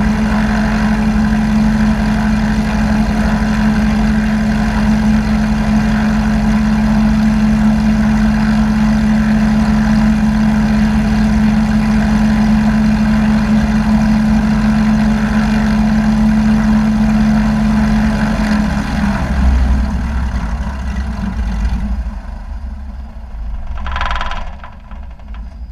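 Light aircraft piston engine idling steadily. About three-quarters of the way through it winds down and stops, followed by a short burst of noise near the end.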